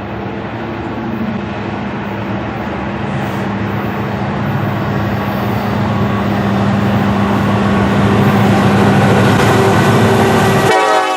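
CN diesel locomotives approaching on the station track: a steady engine hum and rumble that grows gradually louder for about ten seconds, then cuts off abruptly near the end.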